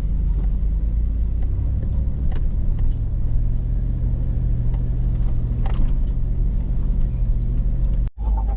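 Hummer H2's V8 engine running low and steady as the truck crawls the trail, heard from inside the cabin, with a few faint knocks over it. The sound cuts out briefly near the end.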